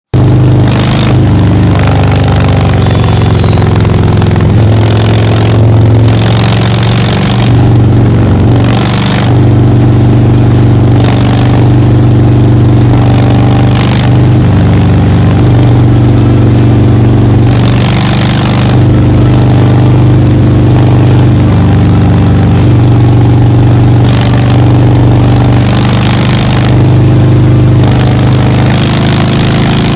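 Harley-Davidson Road Glide Special's V-twin engine running loud through its exhaust, a deep steady rumble whose pitch steps up and down every few seconds with throttle changes.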